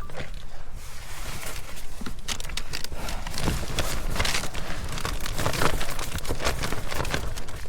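Crinkly plastic packaging being handled and torn open to unwrap a cake, a rapid irregular crackling, over a steady low rumble of wind on the microphone.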